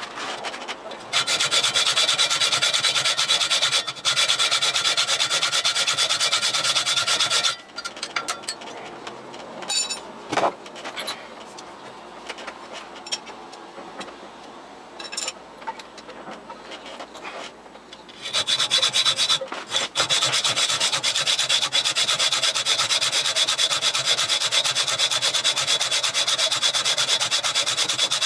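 Metal lathe at work: a loud, steady rasping cut with a high whine in it runs for about six seconds, then gives way to about ten seconds of quieter clicks and knocks, then resumes for the last ten seconds.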